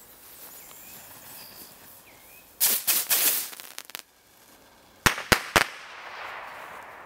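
A volley of bottle rockets going off from a gunpowder-dusted launch tube: a dense crackling burst lasting over a second about two and a half seconds in, then three sharp bangs in quick succession about five seconds in, with a faint hiss after.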